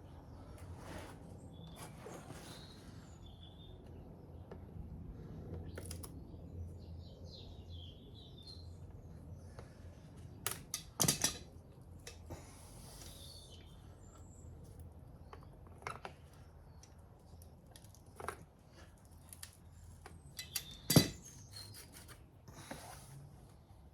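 Hand work on an engine: scattered clicks, clinks and light knocks of metal tools and parts being handled. A cluster of clinks comes about halfway through, and a single sharper knock comes near the end.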